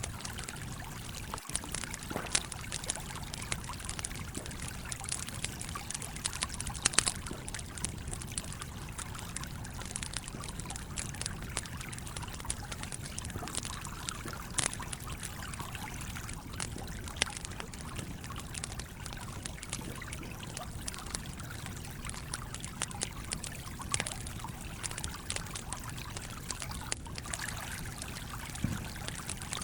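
A stream trickling steadily, with a wood campfire crackling over it in frequent sharp pops, the loudest about seven seconds in.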